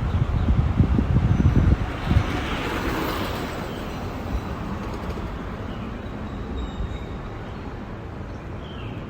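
Wind buffeting the microphone in gusts for the first two seconds, then a swelling hiss that peaks about three seconds in and fades to a steady outdoor background with a few faint high chirps.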